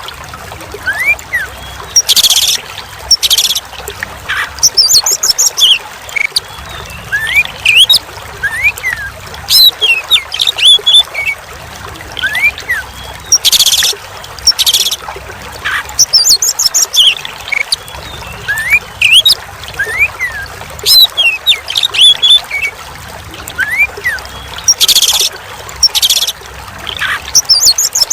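Oriental magpie-robin (kacer) singing: quick whistled sweeps and chirps with loud short harsh notes, over a steady trickle of running water. The same stretch of song repeats about every eleven and a half seconds, as a looped training recording.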